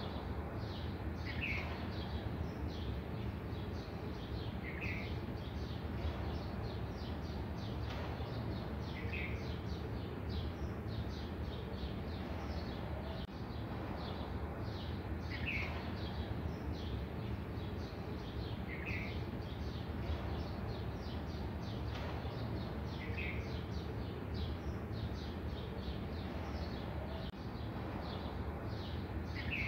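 A bird giving a short call every three to four seconds, over a dense patter of faint higher chirps and a steady low hum.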